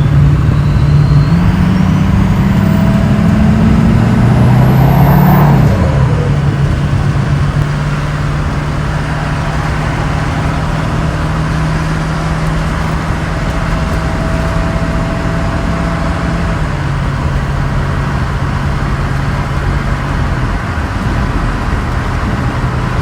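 6.0-litre turbo diesel engine pulling under acceleration: its drone rises in pitch over the first few seconds with a thin whistle climbing alongside, then drops back about five seconds in and settles into a steady, quieter cruise.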